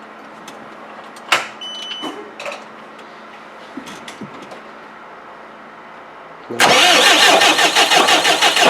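A few clicks and a short beep, then about six and a half seconds in the Cummins 3.8 four-cylinder diesel starts and runs with a heavy, rapid knock. The knock is the sign of a broken crankshaft, most likely cracked at the front, as the owner suspects.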